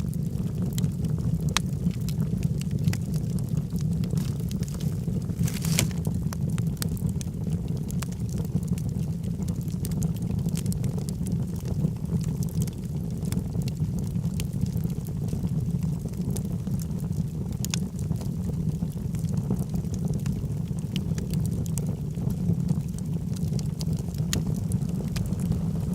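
Wood logs burning in a fireplace: a steady low rumble of the fire with frequent small crackles and pops, and a brief flurry of louder pops about six seconds in.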